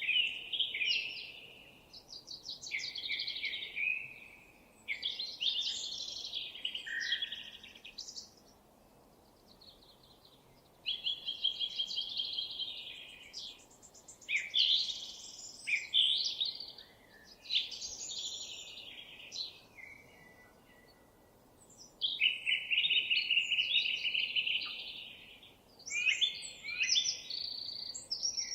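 Songbird singing a string of varied high-pitched phrases, each one to three seconds long with short pauses between, many holding fast trills.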